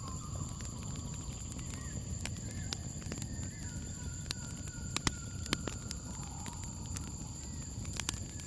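Campfire crackling, with sharp irregular pops over a low rumble, while a continuous high insect trill runs steadily behind it. Faint wavering calls drift in the background.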